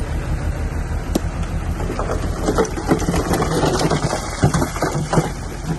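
Bulldozer's diesel engine running steadily with a low rumble. From about two seconds in, irregular knocks and clatter join it.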